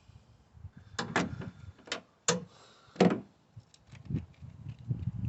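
Sharp clicks and knocks of hand tools and loosened cam cover bolts being handled on a Honda Civic engine, five distinct strikes between one and three seconds in, then softer small knocks.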